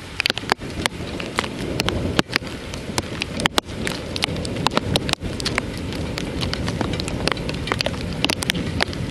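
Heavy thunderstorm rain falling, with many sharp, irregular taps of drops striking a hard surface close by.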